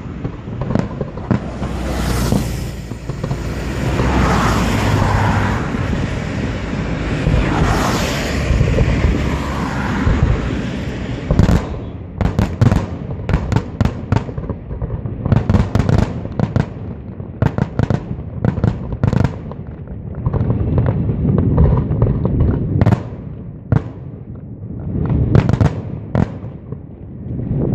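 Aerial fireworks display: about ten seconds of dense crackling, then rapid volleys of sharp bangs from bursting shells.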